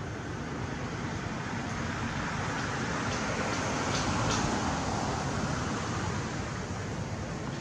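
A steady rushing background noise that swells about three to five seconds in and then eases off, with a few faint clicks in the middle.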